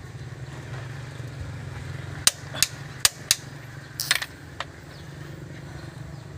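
Hand tools striking metal: about six sharp clinks and knocks spread over two seconds or so near the middle, over a steady low hum.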